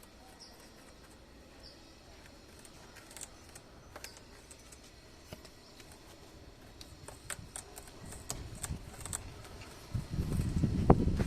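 Parrot biting and chewing a money plant stem: scattered small clicks and snaps, with a few faint short high chirps. About ten seconds in, a louder low burst of rumbling noise.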